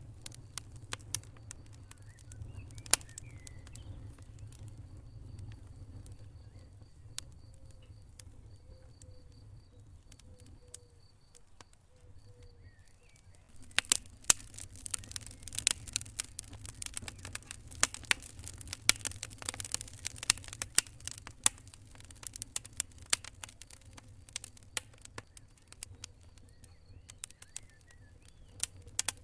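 Wood fire in a fireplace crackling and popping over a low rumble of flame, with scattered sharp pops. About halfway through the crackling grows much denser and busier for several seconds before thinning again.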